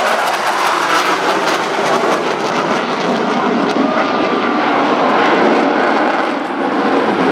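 Dassault Rafale C fighter's twin Snecma M88 turbofan jets running at display power, a loud steady rushing noise with a faint whine in it.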